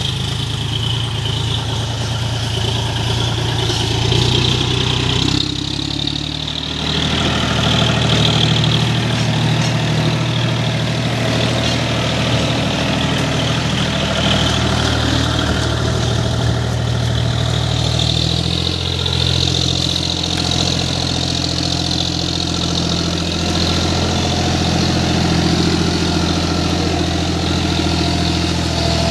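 A John Deere tractor's diesel engine running steadily at a low idle. Its note shifts briefly about five to seven seconds in, then settles back to a steady run.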